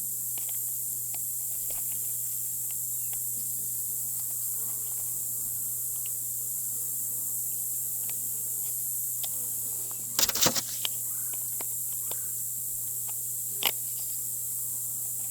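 A steady, high-pitched insect drone over honeybees buzzing around an open hive. Scattered light clicks run through it, with a short cluster of louder knocks about ten seconds in and another near the end, from handling hive parts and beetle traps.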